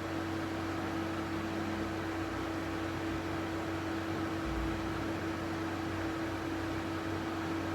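A small fan-driven device running: a steady hiss with a constant low hum.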